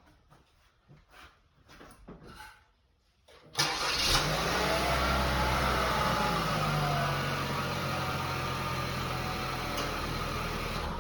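A 2018 Chevy Equinox's engine cranks and starts about three and a half seconds in, flares briefly, then settles to a steady idle, and is shut off near the end. It is a brief run just after the oil change to circulate the new oil before the level is checked.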